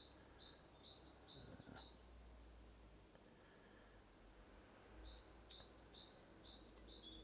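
Near silence with faint birdsong: short, high chirps repeated throughout, and one faint knock about one and a half seconds in.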